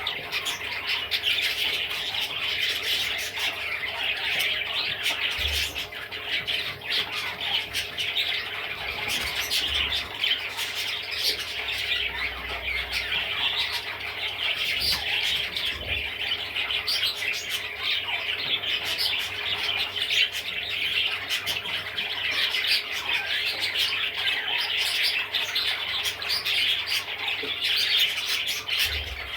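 Budgerigar warbling and chattering without a break: a dense, continuous run of quick high chirps.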